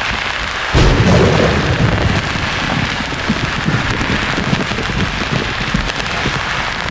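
Steady white-noise hiss with a thunderclap breaking in about a second in, its low rumble rolling on to the end.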